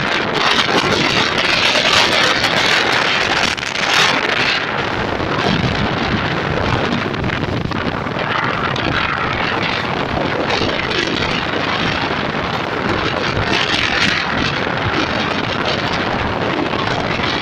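Express passenger train passing at speed: a steady loud rush of wheels on rails and moving coaches, with wind buffeting the microphone.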